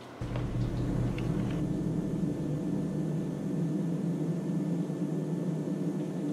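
A steady low rumbling hum that comes on suddenly, with a few faint clicks in the first second and a half.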